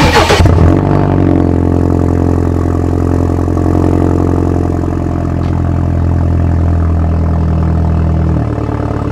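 BMW F31 3 Series wagon engine with a muffler delete starting up: a loud flare as it catches, then a steady idle through the exhaust. About eight seconds in the idle drops to a lower, quieter note as it settles.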